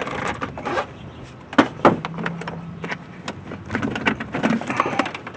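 Irregular clicks, knocks and rattles of the truck's stock air intake parts being handled and worked loose by hand before they are pulled apart.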